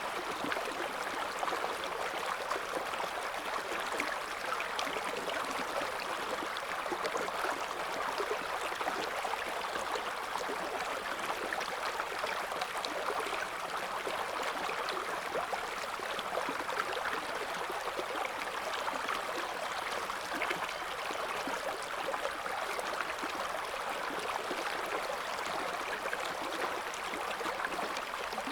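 River water flowing over stones, a steady babbling and gurgling of the current.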